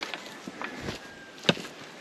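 Footsteps of a hiker on a trail, a few uneven steps, with a sharp knock about one and a half seconds in.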